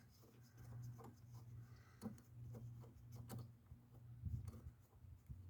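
Near silence with a few faint clicks and light scraping of hand tools on a car battery terminal clamp, over a faint low hum.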